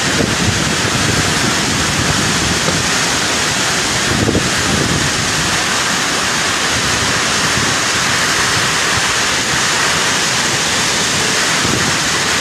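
Storm wind blowing hard and without let-up: a loud, steady rushing noise, with gusts buffeting the phone's microphone.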